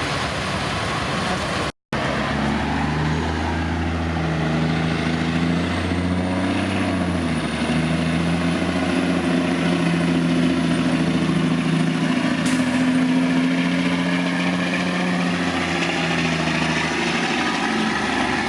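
Pulling semi truck's diesel engine running hard under load, a steady heavy engine note with a high whine above it, shifting in pitch about seven seconds in and easing near the end. The sound cuts out briefly about two seconds in.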